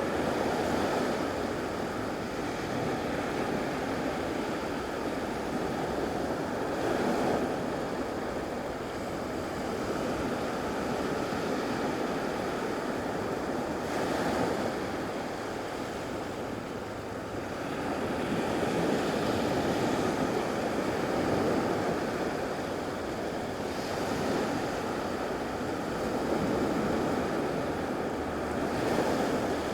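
Gulf of Mexico surf washing onto a beach, a steady rush of waves that swells and eases every several seconds as each one breaks.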